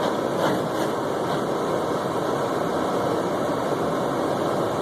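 Steady cabin noise of a car driving on a snowy road: engine and road noise, with a few faint ticks in the first second or so.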